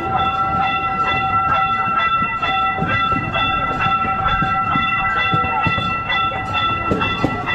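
C.P. Huntington replica park train running, heard from an open passenger car: a steady rumble with frequent clicks of the wheels on the track, under a set of steady high tones that hold throughout.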